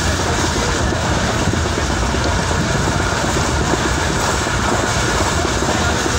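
Passenger train running along the track, heard from inside the coach: a steady, loud noise of the wheels on the rails and the moving carriage.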